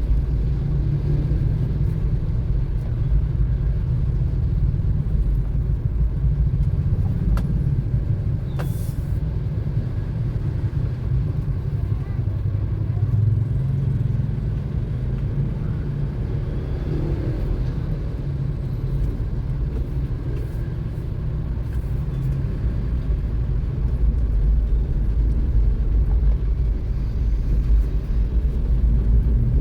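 Car on the move: a steady low rumble of engine and road noise, with one brief sharp click about nine seconds in.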